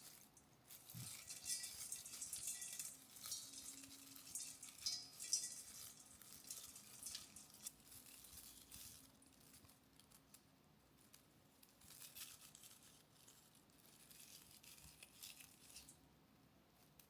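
Soft rustling and crinkling handling noises with small clicks, coming in uneven bursts, busiest in the first half.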